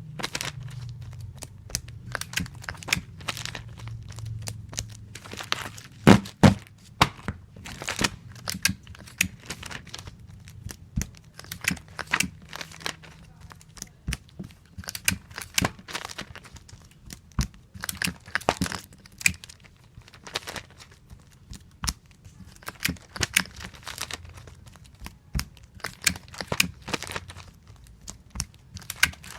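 Clear tape being pulled off a tape dispenser roll with a tearing rasp and snapped off at the cutter, over and over in an irregular rhythm, with crinkling and taps as strips are pressed down. Two sharp snaps about six seconds in are the loudest.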